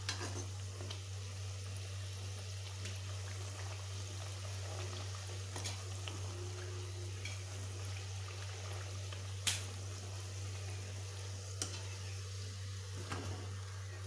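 Food frying in oil in a pan: a soft, steady sizzle over a steady low hum, with a few sharp clicks of a utensil against the pan, the loudest about nine and a half seconds in.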